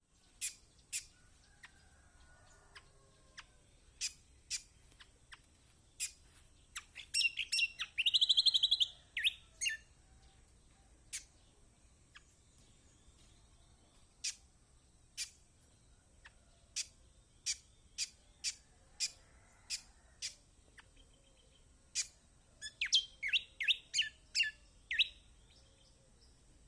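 Kecial kombok, a white-eye, calling: scattered sharp single chirps, a loud, rapid chattering burst about seven to ten seconds in, and another quick run of chirps near the end. It is a tutor recording used to set caged white-eyes singing.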